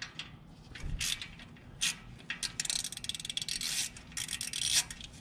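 Socket ratchet wrench clicking as small 8 mm bolts are backed out: a few separate clicks and knocks, then two fast runs of ratchet clicks in the second half.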